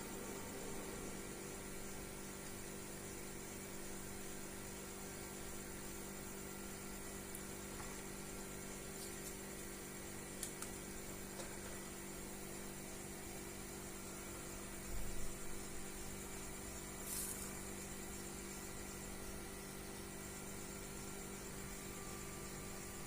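A steady low electrical hum, with a few light clicks and a short knock about fifteen seconds in.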